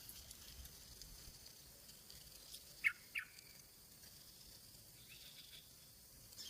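Steady high drone of insects in the background, with two short, sharp bird chirps in quick succession about three seconds in.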